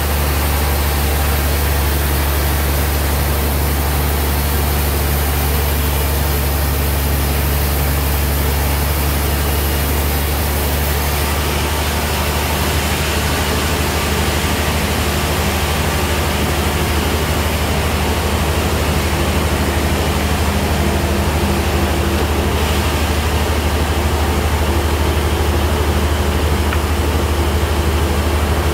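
Band sawmill running steadily, with a deep motor hum and a constant hiss over it; the hiss shifts slightly twice.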